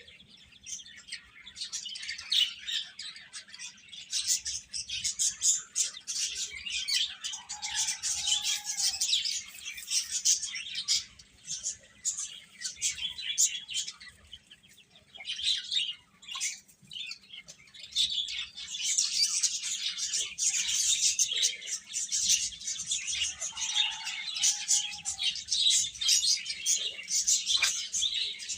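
Many baby chicks peeping together, a dense stream of short high chirps that thins out for a few seconds midway and then builds again.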